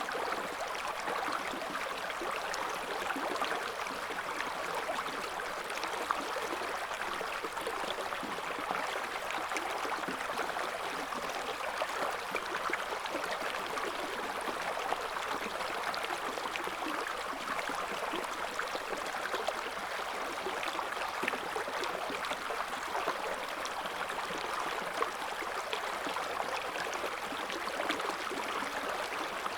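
Shallow river current flowing and burbling steadily, a continuous splashy rush of water.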